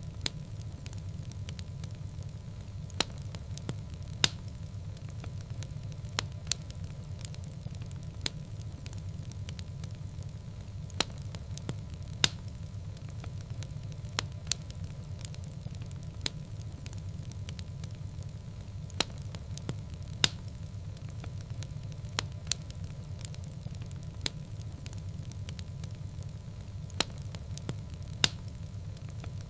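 Wood fire burning in a fireplace: a steady low rumble of flames with sharp, irregular pops and crackles, about one a second.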